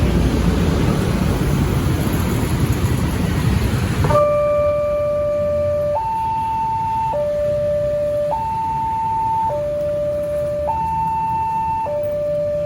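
Railway level-crossing warning siren sounding a steady two-tone alarm, alternating between a low and a higher pitch about every second and a bit, warning that a train is coming. It follows a few seconds of loud rushing noise that cuts off abruptly.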